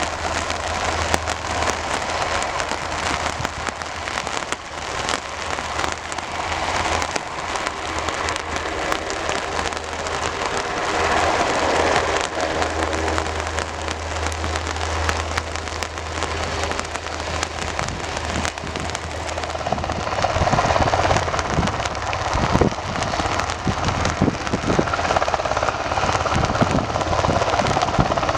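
Rain falling in a dense crackle of drops, with a steady low hum underneath.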